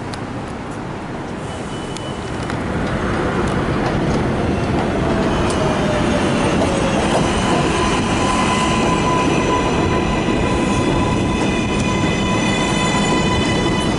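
R188 subway train on the elevated 7 line running in, its wheels rumbling and clattering on the rails and growing louder about two seconds in. From about five seconds in, several steady high-pitched whining tones sound over the rumble.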